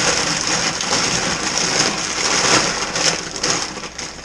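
Dry 2-row barley malt kernels being poured and scooped, a continuous rattling hiss like rain.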